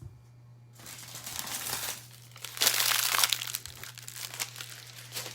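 Plastic packaging crinkled and crumpled by hand, in two spells with the louder one near the middle, then lighter crackling.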